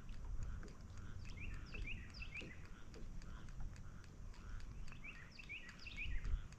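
A songbird singing a short phrase of quick chirps twice, about a second in and again about five seconds in, over a low steady rumble.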